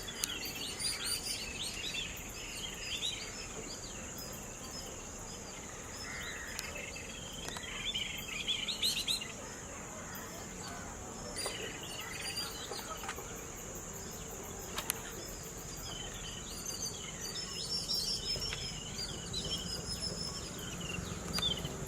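Birds chirping and calling over a steady, high-pitched insect drone. Bursts of chirps come thickest near the start, around eight to nine seconds in, and again near the end.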